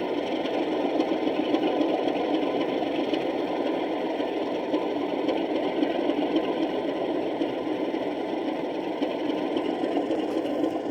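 The onboard sound decoder of a sound-fitted OO gauge Class 37 model locomotive playing a Class 37 diesel engine idling through its small speaker. It is a steady running sound with almost no deep bass.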